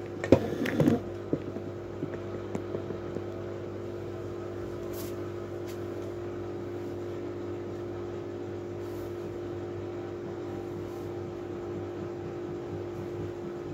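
Miele W433S front-loading washing machine running with a steady motor hum, with a short burst of knocking and clattering near the start and a few light clicks just after.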